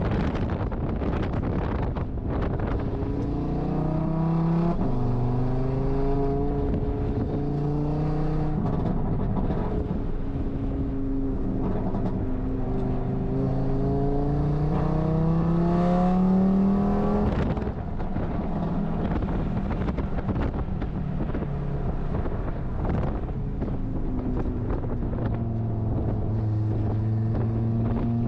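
Audi RS3 race car engine pulling hard, its pitch climbing and dropping back several times as it runs up through the revs. A long climb cuts off suddenly about two-thirds of the way through, and the engine then runs on at lower, steadier revs.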